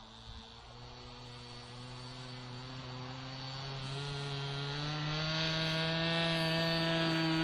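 Nitro glow engine of a Seagull Boomerang V2 radio-controlled trainer plane running at takeoff power, a high buzzing drone that grows steadily louder and steps up in pitch about two-thirds of the way through.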